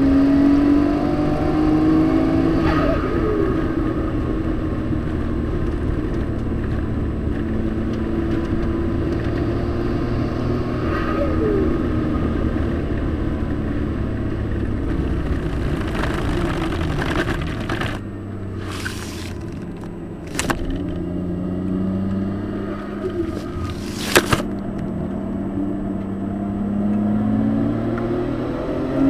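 Nissan Skyline's engine heard from inside the cabin while lapping a race circuit, its pitch rising and falling as the driver accelerates and lifts off. The engine eases off for a couple of seconds a little past the middle, and there are several sharp knocks then.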